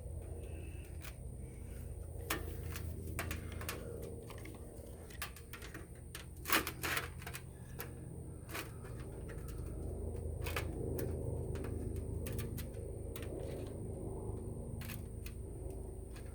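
Irregular clicks and light knocks of hand tools and thin sheet metal being handled at a workbench, with a steady low hum underneath. One sharper knock comes about six and a half seconds in.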